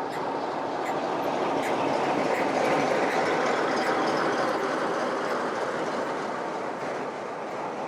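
A railway train rolling slowly by, its rumble swelling to a peak about three seconds in and then easing, with faint regular clicks of wheels crossing rail joints.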